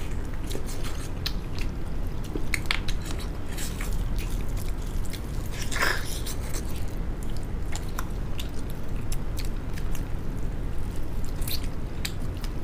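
Close-up eating sounds: biting and chewing duck meat off the bone, with scattered wet smacks and clicks and one louder wet smack about six seconds in.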